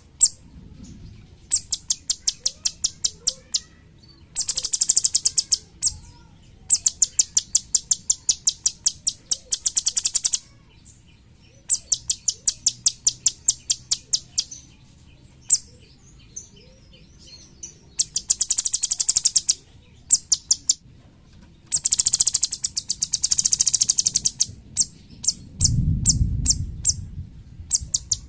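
Cucak cungkok singing in fast trains of high, sharp repeated notes: dense rattling trills alternating with slower series of a few clipped notes a second, broken by short pauses. A low dull rumble comes in near the end.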